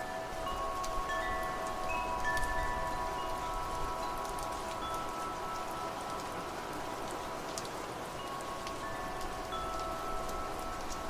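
Wind chimes ringing over steady rain: several long, overlapping tones at different pitches, struck one after another, with scattered raindrop ticks.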